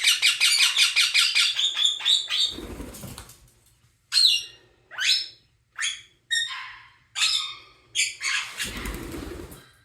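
Indian ringneck parakeets calling: a fast, stuttering run of repeated chirps for about two seconds, then a series of single harsh squawks, each dropping in pitch, about one a second. Two short low rustling sounds, about two and a half seconds in and near the end.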